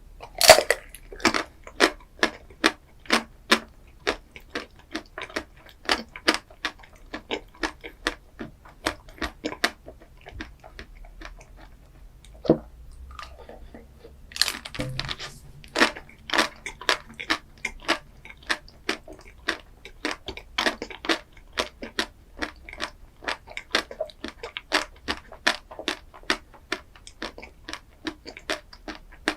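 A person biting and chewing crunchy chocolate-coated dessert, with crisp clicky crunches about two to three a second. There are louder bites about half a second in and again about halfway through, with a short lull before the second.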